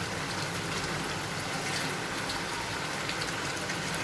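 Chicken and whisked yogurt sizzling steadily in oil in a kadai on a high flame, with small crackles throughout, as the yogurt cooks down and begins to foam. A steady low hum lies underneath.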